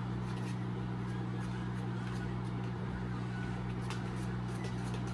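A steady low hum with two constant low tones. Over it come faint, scattered light clicks of a spoon stirring pancake batter in a bowl.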